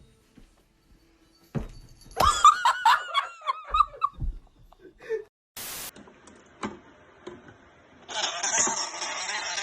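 High-pitched laughter: a quick run of rising-and-falling bursts, about five a second, following a thump. A short hiss of static comes after it, and a steady noisy wash starts near the end.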